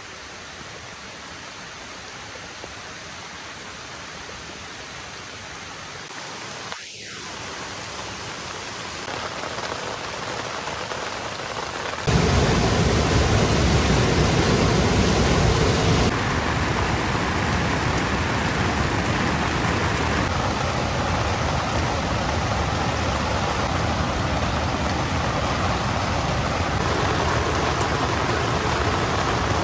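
Heavy rain falling in a steady hiss that grows slowly louder, jumps suddenly louder about twelve seconds in, then eases slightly a few seconds later and holds steady.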